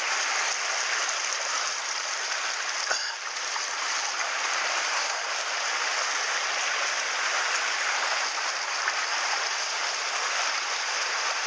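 Mountain stream running steadily: an even rush of flowing water.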